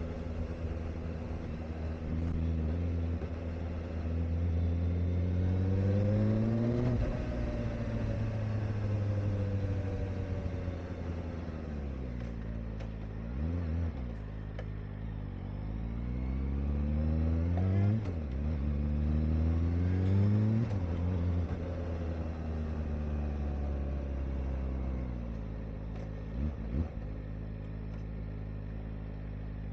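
Kawasaki Ninja ZX-4RR's inline-four engine under way: revs climb and drop sharply at upshifts about seven and eighteen seconds in, then fall away after about twenty-one seconds. There are short dips around fourteen and twenty-seven seconds. The engine is still being run in, so it is kept out of high revs.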